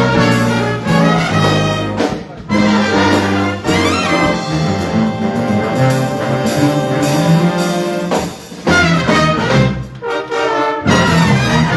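High school jazz big band playing a loud up-tempo tune, led by trumpets and trombones over the rhythm section, with sustained brass chords punctuated by short breaks.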